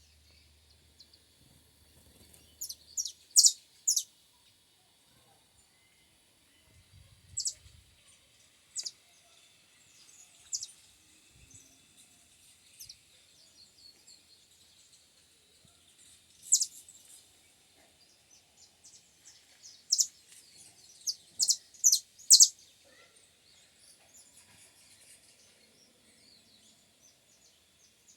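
A small songbird giving short, sharp, high chirps in scattered bunches, with quiet gaps between; the loudest bunches come near the start and about three quarters of the way through.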